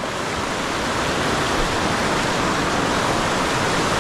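Salmon River rushing over rocks in fast rapids: a steady rush of water, growing a little louder in the first second and then holding even.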